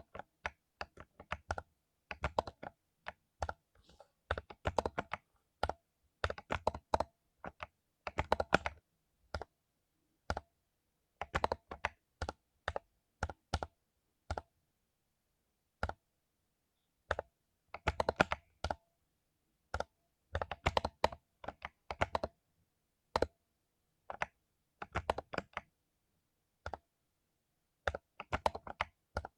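Typing on a mechanical keyboard with lubed Cherry MX Silver linear switches, sharp keystroke clicks in quick irregular bursts separated by short pauses.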